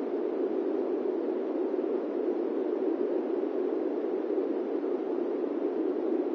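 Airplane cabin noise in flight: a steady, even rushing hiss, weighted toward the lower-middle range, without any change in level or pitch.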